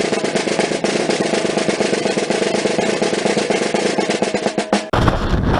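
Fast, steady snare-drum roll as music. It cuts off abruptly near the end to wind buffeting the microphone.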